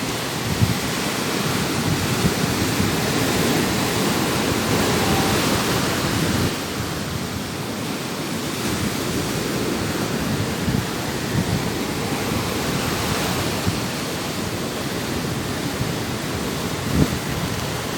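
Stormy sea: a steady rushing roar of heavy surf and wind, with a few heavier surges breaking through, the strongest near the end.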